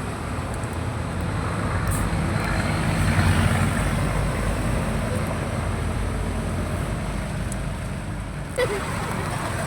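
Road traffic: vehicle engines and tyre noise with a low rumble that swells as a vehicle passes about three seconds in, and one sharp click near the end.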